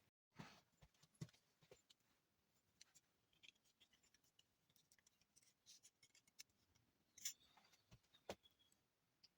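Near silence with a few faint, scattered clicks and scrapes, the sharpest two about seven and eight seconds in.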